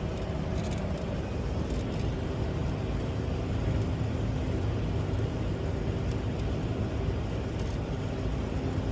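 Steady engine and road noise heard inside a semi-truck's cab while driving at speed, with a low, even engine hum underneath.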